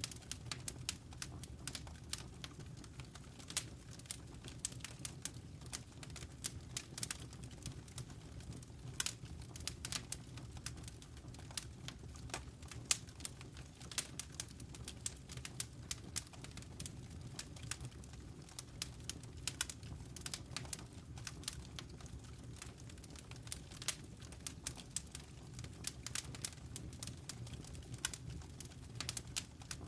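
Wood fire crackling: frequent irregular sharp snaps and pops over a steady low noise of burning flames.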